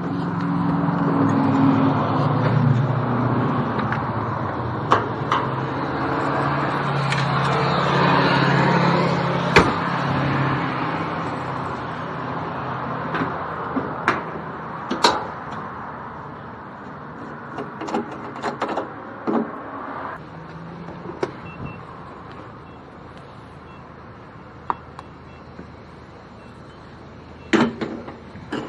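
A 1972 Fiat 500's small two-cylinder engine runs steadily for about the first ten seconds, then dies away. After that come scattered sharp clicks and knocks from the car's door and front luggage lid being handled, with a cluster of knocks near the end as the lid is opened.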